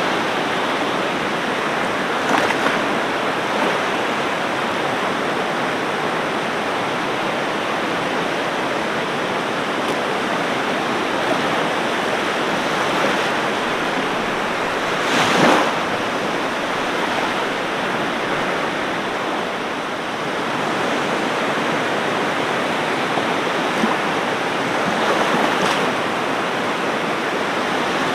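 Ocean surf washing onto a beach: a steady rush of water, with a few stronger waves breaking, the loudest about halfway through.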